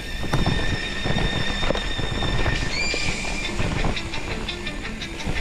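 Mountain bike rolling over rough trail, the frame and parts rattling and knocking, with high disc-brake squeal that rises briefly about three seconds in.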